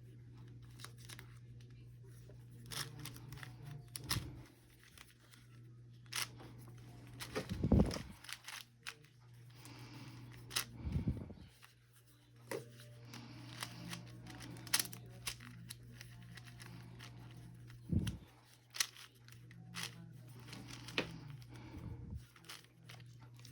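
Plastic Rubik's cube being turned by hand: irregular clicks and short scraping rattles as the layers are twisted, over a steady low hum.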